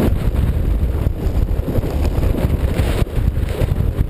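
Vehicle engine running under heavy wind buffeting on the microphone, a steady, rough low rumble.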